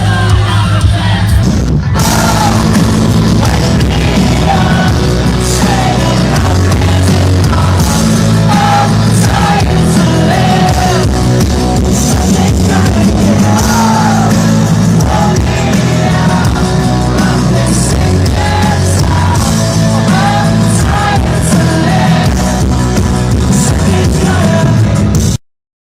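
Loud rock music with a singer, with yells or shouts among it. It cuts out abruptly to silence for about half a second near the end.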